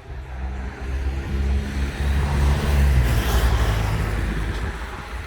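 A motor vehicle on the road passes close by: its engine note and tyre noise grow louder, peak about three seconds in, then fade.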